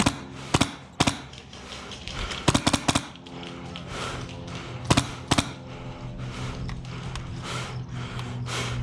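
Airsoft gunfire: scattered single shots and one quick burst of about six shots, about two and a half seconds in. Background music with steady held tones runs underneath.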